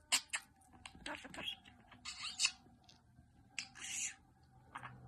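Parrot giving a series of short, harsh squawks, spaced irregularly about a second apart.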